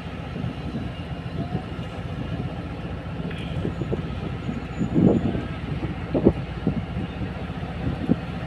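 Passenger train running on the track: a steady low rumble with irregular knocks and clanks, the loudest about five and six seconds in.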